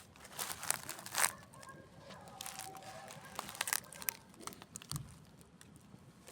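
Campfire crackling, with irregular snaps and pops from the burning wood; the sharpest pop comes a little over a second in.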